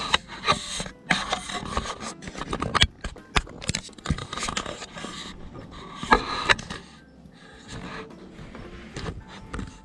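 Irregular knocks, clicks and rubbing, with several sharper knocks in the first seven seconds, then quieter scraping.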